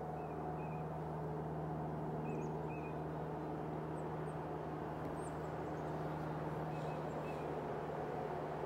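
Steady low hum of an Amtrak Acela Express approaching from far down the track, growing slightly louder, with a few faint short high chirps over it.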